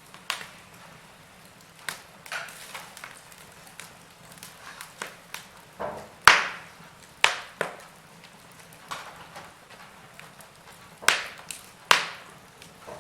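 Wood fire crackling in a fireplace, with irregular sharp pops. The loudest pops come about six seconds in and twice near the end.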